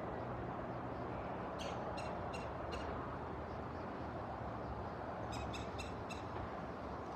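Red-bellied woodpecker calling: two quick series of four short, harsh notes, about three seconds apart, over a steady low background rumble.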